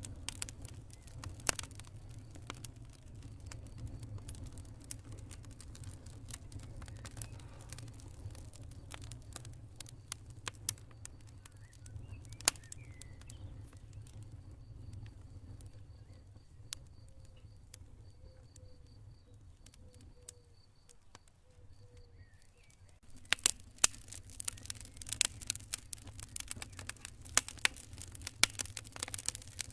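Campfire crackling: sharp pops and snaps of burning wood over a low steady rumble, sparse through the middle and coming thick and fast in the last several seconds. A faint high pulsing chirp, like crickets, runs through the middle stretch.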